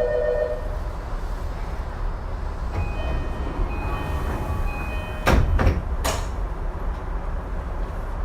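Tokyu 2020 series commuter train at a station stop: a steady chime ends about half a second in, then the sliding doors shut with two sharp bangs about five and six seconds in, over the low hum of the standing car.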